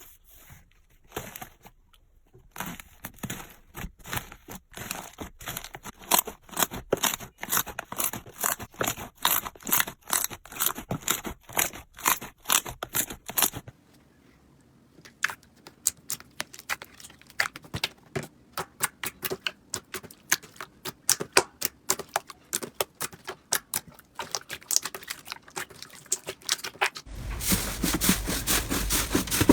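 Slime being pressed and squeezed by hand, giving quick runs of crackling and popping clicks. The texture of the sound changes abruptly about halfway through and again near the end.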